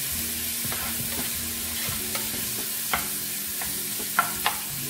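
Diced tomato and onion sizzling in oil in a frying pan, stirred with a spatula that scrapes and knocks against the pan a few times, the two sharpest knocks near the end.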